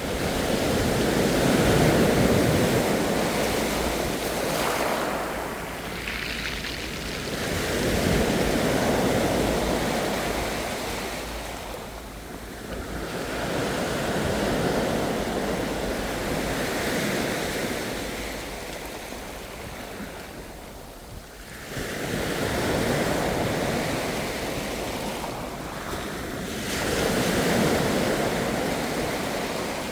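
Ocean waves breaking and washing up the shore, rising and falling in slow surges every five to seven seconds.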